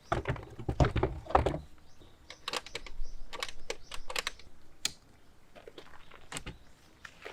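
Objects being handled: a burst of heavy thumps in the first two seconds, then scattered sharp clicks and knocks, and one more thump near the end.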